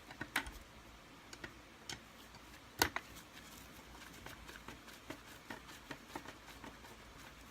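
Scattered small clicks and taps of a screwdriver and screws on the metal brackets of a Kirby vacuum's front-wheel height adjustment mechanism as it is unscrewed, with one sharper click a little under three seconds in.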